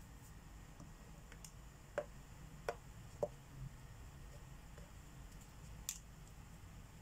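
A few light clicks and taps from marker pens being handled while coloring: three close together about two to three seconds in and one more near the end, over a faint room hum.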